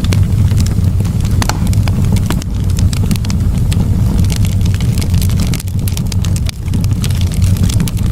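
Wood campfire burning, the logs crackling with frequent sharp pops over a steady low rumble.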